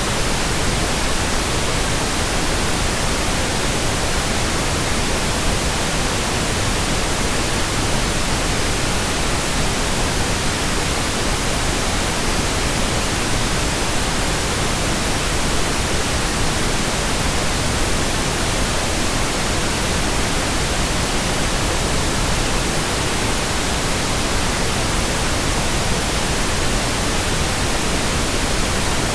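Steady white noise: an even, unchanging hiss spread evenly from the lowest to the highest pitches.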